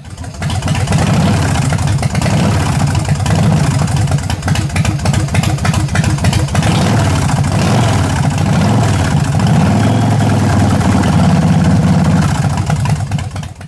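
Big Dog K9 motorcycle's S&S 117 cubic-inch V-twin engine running, with the revs rising and falling several times.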